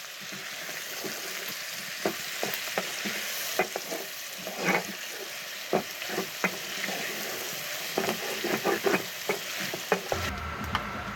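Chopped onion and garlic sizzling in hot fat in a pot, with a spoon scraping and clicking against the pot as they are stirred. About ten seconds in, the sound cuts to a low steady hum.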